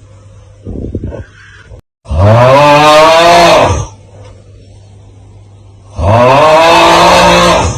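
The 'Aauuggh' TikTok meme sound, looped: a loud, drawn-out vocal 'aauuggh' whose pitch rises and then falls, heard twice, about four seconds apart. A quieter breath-like sound comes about a second in.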